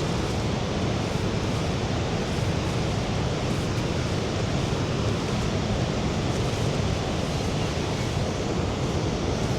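The Rhine Falls' water rushing: a steady, unbroken roar of falling water.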